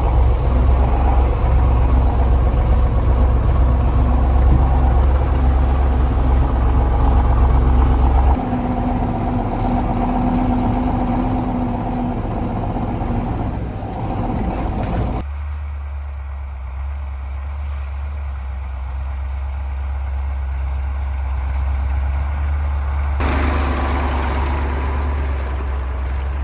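1985 KAMAZ 4310 6x6 truck's V8 diesel engine running steadily as the truck drives. The sound changes abruptly in tone and loudness three times: about a third of the way in, just past halfway, and near the end.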